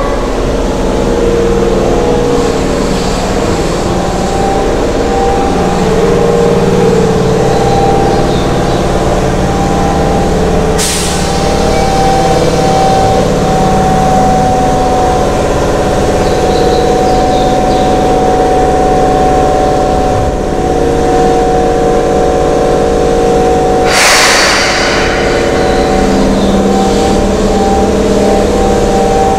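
Keihan electric train at an underground platform: a steady, echoing hum of several machine tones from the train's equipment. Two short sharp air hisses from the brakes, about a third of the way in and again later on.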